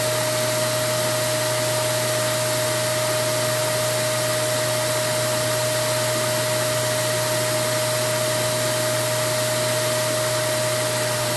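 Vacuum cleaner running steadily: an even rushing noise with a constant whine and a low hum, unchanging throughout.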